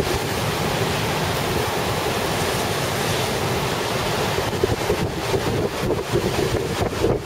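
Storm surf crashing and rushing under strong gale wind that buffets the microphone. The buffeting turns gustier and more uneven in the second half.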